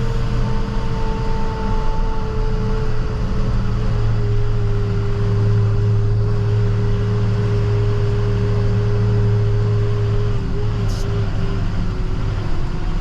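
Plow truck's diesel engine running steadily under way, heard from inside the cab, its drone easing down slightly in pitch near the end as the truck slows.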